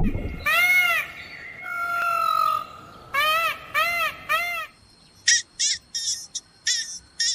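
Loud bird calls. First a single arched call, then a long level note, then three quick arched calls in a row. A run of shorter, higher-pitched calls follows over a faint steady high tone.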